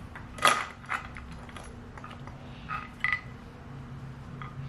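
Metal parts clinking and tapping with short ringing notes as the camshafts and cam chain are handled on a Kawasaki KX450F cylinder head during cam timing, about five clinks, the loudest about half a second in, over a steady low hum.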